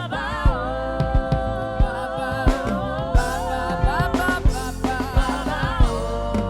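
Live gospel worship music: a long held note over keyboard, with a drum beat about one and a half times a second.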